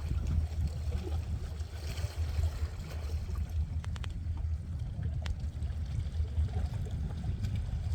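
Wind rumbling and buffeting on the microphone by the sea, with a few faint clicks around the middle.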